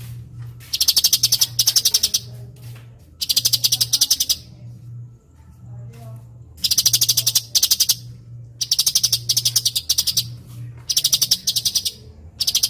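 Cucak cungkok singing in repeated bursts of very fast, sharp high notes, each burst about a second long with short pauses between them. The bursts are tight, rapid-fire runs of notes. A low steady hum runs underneath.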